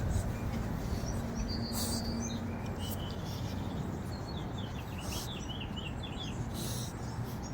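Birds chirping over a steady background rumble, with a quick run of chirps around the middle and a held high whistled note early on.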